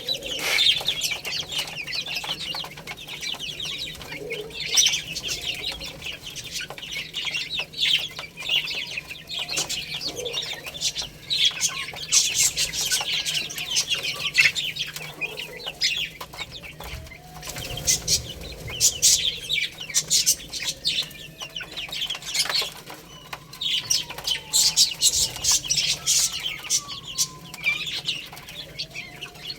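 Many baby chicks chirping together in a dense, unbroken chatter of high peeps, with occasional lower, gliding calls mixed in.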